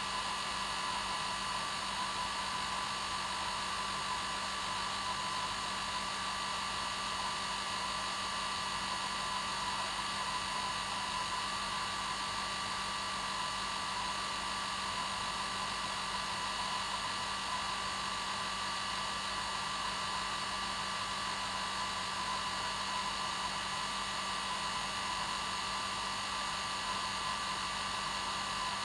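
Hair dryer running steadily: an even whooshing blow of air with a constant motor whine, unchanging throughout.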